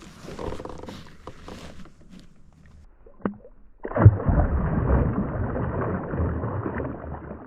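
Faint handling clicks, then a knock about four seconds in followed by loud, muffled water sloshing and gurgling against the kayak.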